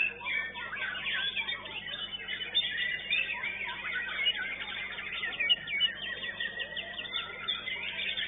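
White-rumped shamas (murai batu) singing: rapid, varied chirps and whistles that overlap without a break.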